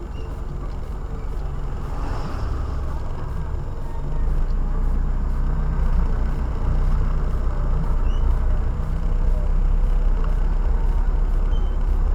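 Car engine and road rumble heard inside the cabin while driving, a steady low hum that gets a little louder about four seconds in.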